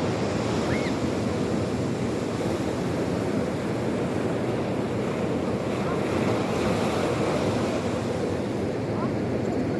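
Sea surf washing steadily, with wind noise on the microphone.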